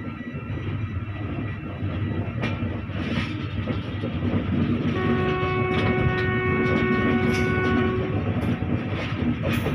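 Indian Railways passenger coach running along the track: continuous rumble and rattle of wheels on the rails, with a train horn sounding one long steady note from about halfway through for roughly three seconds.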